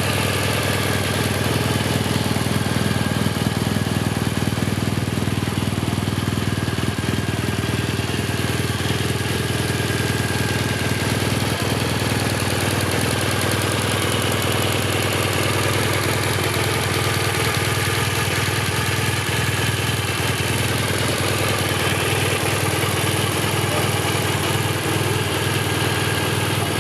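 2017 BMW R1200 GS Adventure's liquid-cooled boxer twin idling steadily.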